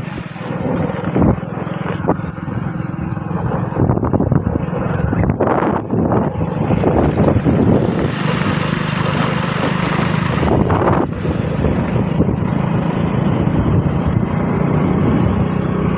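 A motor running steadily, with a noisy rush over its low hum.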